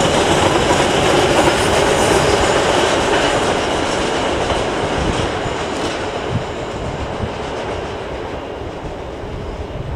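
Container train's wagons rolling past on the rails, their wheels running over the track, the sound fading steadily as the last wagons pass and the train draws away.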